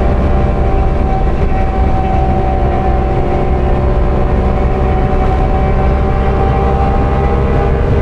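Parallel-twin sport motorcycle engine running hard at high, steady revs at speed, with wind rush. The bike is held near flat out, close to the most it has.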